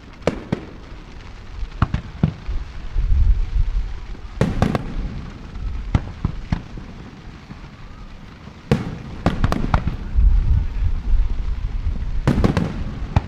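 Aerial fireworks shells bursting over the harbour: sharp bangs in clusters of two or three, with deep rolling booms about three seconds in and again around ten seconds in.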